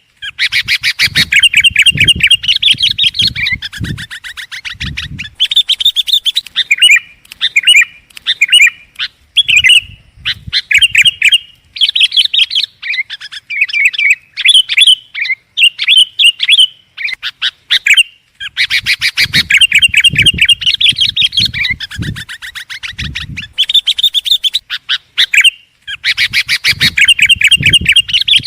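Sooty-headed bulbul (kutilang) chattering loudly and without let-up, in fast runs of quick high notes lasting a few seconds each, with a couple of brief pauses. Low thuds sound under some of the runs.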